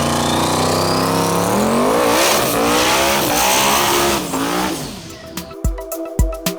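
Street-race cars, a twin-turbo Mustang and a turbocharged Mitsubishi Eclipse, accelerating hard. The engine pitch climbs and drops back at the gear shifts about three times. The engines fade out near the end as music with a beat comes in.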